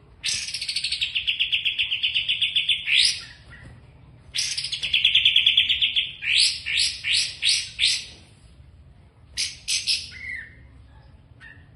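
A songbird singing: a fast, high trill lasting a couple of seconds, then a second trill running into a string of about six quick sweeping notes, and a few short separate notes near the end.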